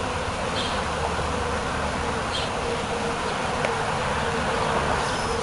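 Swarm of honeybees buzzing steadily around a hive as they settle in.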